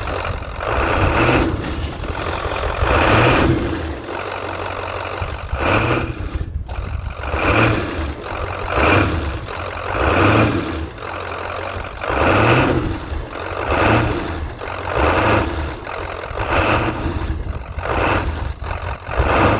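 Deep snow being dug out with a shovel from around a stuck truck's tires, one scoop about every second and a half, over a steady low hum.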